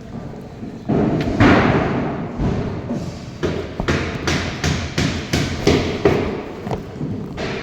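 A loud rumbling knock about a second in, then a run of sharp heavy thuds, two to three a second, like blows on a hard surface.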